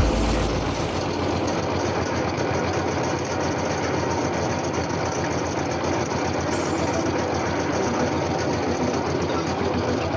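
Borewell drilling rig running steadily, a fast, even mechanical clatter of the rig working.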